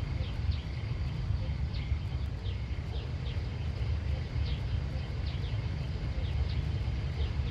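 Outdoor ambience: a steady low rumble, with short high chirps from a small bird or insect repeating roughly twice a second over it.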